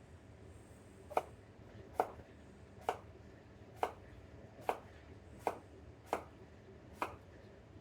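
Knife slicing an onion on a cutting board: eight separate knife strikes on the board, about one every second.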